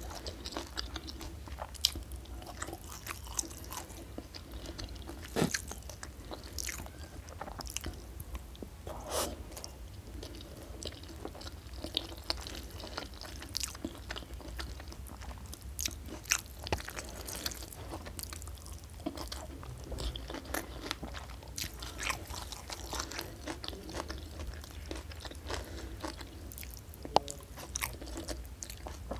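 Close-miked chewing and biting of a hand-eaten meal of rice, fish in green chili sambal and stir-fried mustard greens, with irregular sharp clicks and crunches.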